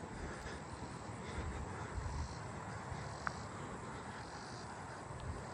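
Distant Robinson's cicada buzzing, its high song swelling and fading in pulses every couple of seconds, over a low outdoor rumble, with one short sharp click about three seconds in.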